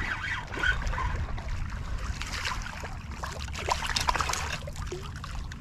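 Water splashing and sloshing beside a kayak as a hooked redfish is played close in, with irregular short splashes over a low rumble of wind on the microphone.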